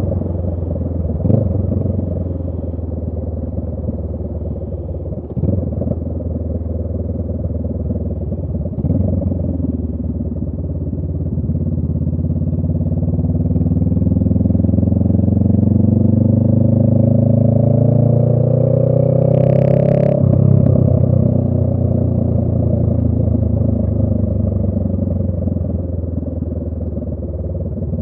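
Honda Rebel 500's parallel-twin engine through a Radiant Cycles Shorty GP exhaust, running under way. A few short knocks come in the first several seconds. The engine pitch then climbs steadily for about ten seconds as the bike accelerates and drops suddenly with a brief hiss, settling into a steady lower note.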